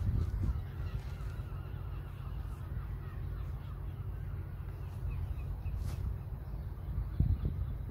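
Birds calling repeatedly, crow- or gull-like caws, over a steady low rumble.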